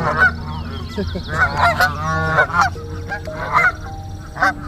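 A flock of birds calling, many short pitched calls overlapping and repeating as they crowd in expecting to be fed.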